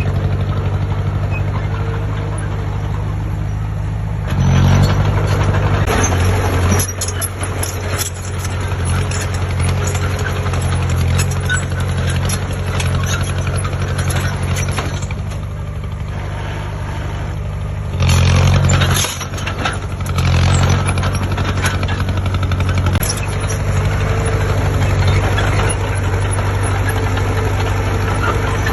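Heavy construction-machine diesel engine running steadily, revving up and louder about four seconds in and again around eighteen and twenty seconds in.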